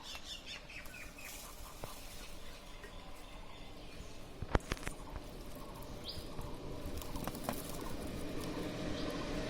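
Small birds chirping in quick short descending notes in the first second or so and again about six seconds in, over a steady outdoor hiss that slowly grows louder. A single sharp knock about four and a half seconds in is the loudest sound.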